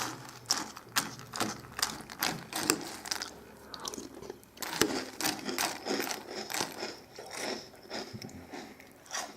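Close-up chewing of crunchy Cap'n Crunch cereal in milk: irregular crisp crunches several times a second.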